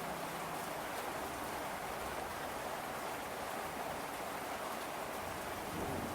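Steady rain falling, an even hiss of rain on a surface with no music over it.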